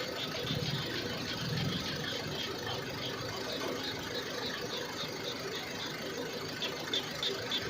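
Small engine idling steadily, with a rapid, even knock of several beats a second.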